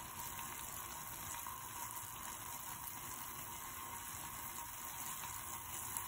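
A cube of tofu sizzling in olive oil in a stainless steel frying pan: a steady, even hiss with small crackles.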